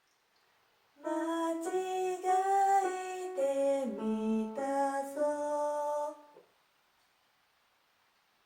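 A single voice sings a short phrase of about five seconds, moving through several held notes that step down in the middle and rise again near the end, with no accompaniment audible.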